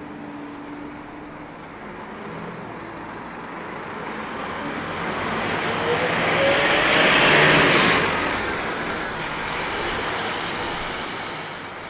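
Scania K230UB Wright Solar bus driving by: its engine and road noise swell to a peak about two-thirds of the way through, the engine note rising as it accelerates, then fade away.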